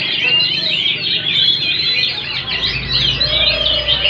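Many caged songbirds singing at once in a contest: a dense, unbroken chorus of quick overlapping chirps and trills.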